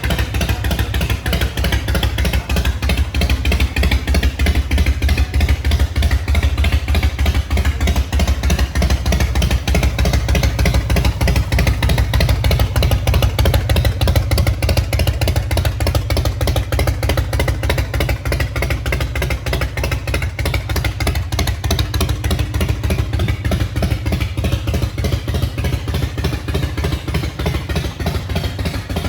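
Harley-Davidson motorcycle's V-twin engine running steadily, with a rapid, even beat of firing pulses.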